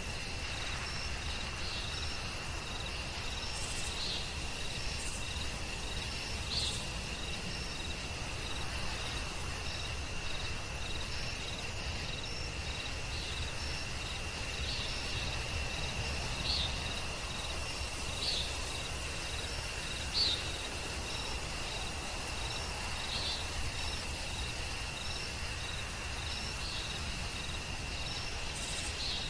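Forest night ambience: a steady, unbroken high insect trill with short chirping calls repeating about once a second above it, a few of them louder, over a low background hiss.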